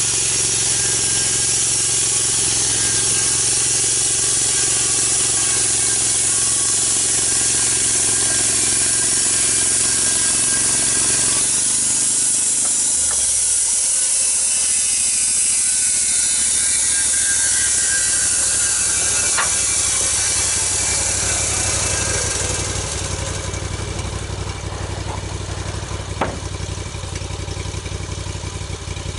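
Small gas engine of a log-milling saw running under load, with a steady high hiss of the saw cutting through a big log. The engine note dips about twelve seconds in and then picks back up. The cutting hiss stops about three quarters of the way through, leaving the engine running more lightly, and there is one sharp knock near the end.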